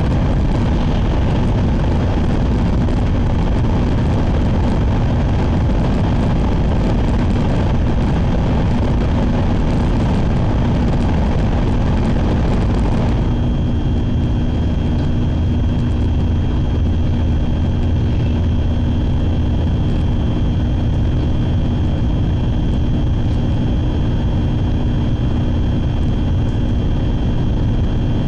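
Shinkansen bullet train running at speed, heard inside the passenger car as a loud, steady rumble and rush. About halfway through, the hissy part of the noise drops and a steady hum stands out over the low rumble.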